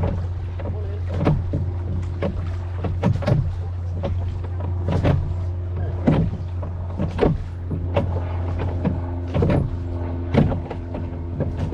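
Rowboat being rowed on a river: sharp knocks and splashes from the oars come roughly once a second, a little irregular, over a steady low hum.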